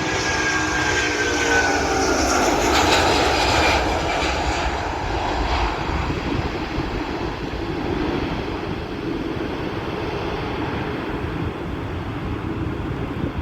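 Jet airliner passing close by, its engine whine sliding down in pitch over the first two seconds. A loud rush of engine noise follows and settles into a steady, lower rumble.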